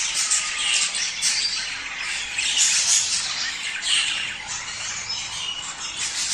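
A flock of budgerigars chattering continuously, a dense mix of warbling, chirps and squawks with no pauses: the breeding chatter played to stimulate budgies to mate.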